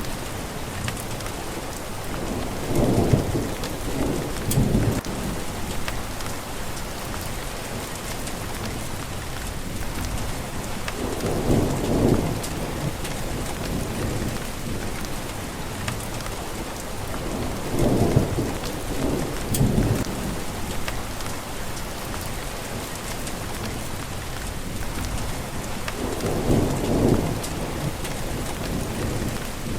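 Steady rain falling, with low rolls of thunder rumbling up four times: a few seconds in, around the middle, and near the end.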